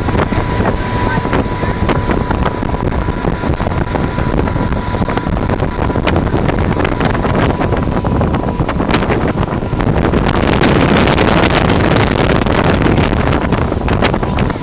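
Motorboat running underway, its engine and hull noise mixed with wind buffeting the microphone; a thin steady whine sits over the rumble.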